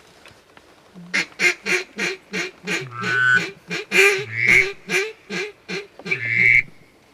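Hand-blown duck call sounding a run of loud quacks, about three or four a second, with a few longer drawn-out notes mixed in and one to close, calling to ducks coming in.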